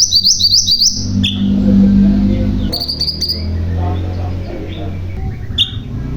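Mantenan gunung songbird singing: a fast run of sharp, high, repeated rising notes, then another short burst of notes about three seconds in and a single high note near the end, over a lower background sound.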